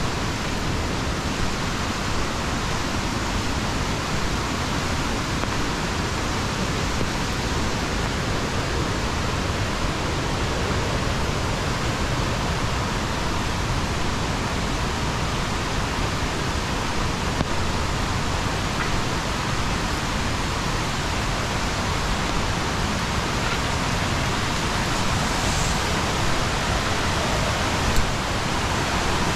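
Steady, dense rushing of falling water, even throughout, with one brief tap near the end.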